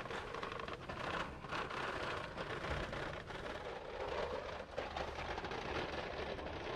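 Small metal pull wagon loaded with tools rolling over a concrete sidewalk, its wheels and load clattering steadily, with plastic bags rustling.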